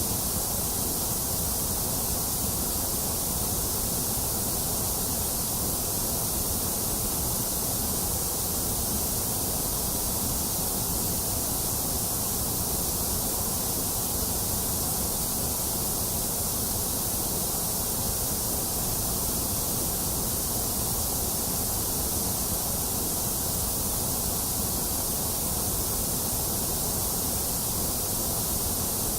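Steady white noise: an even, unchanging hiss, brightest in the high treble with a low rumble underneath.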